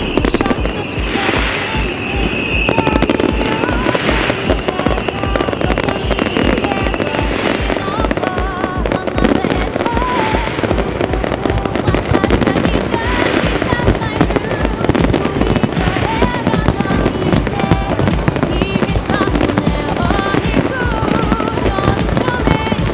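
Fireworks going off in a dense, continuous crackle of small pops, with music with a steady bass beat playing underneath.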